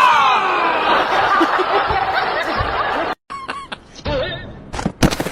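People laughing loudly for about three seconds, cut off abruptly, followed by a few short knocks and brief sounds.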